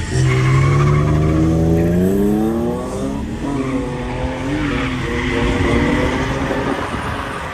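BMW cars accelerating hard one after another, engines revving up in rising pitch, with tires squealing in the second half.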